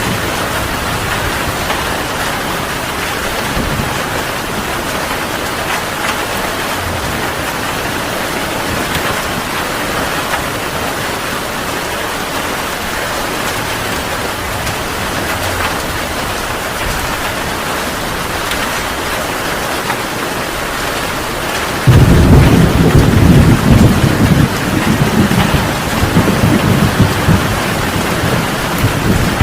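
Heavy rain falling steadily, with a sudden loud clap of thunder breaking in about three quarters of the way through and rumbling on in rolling swells until the end.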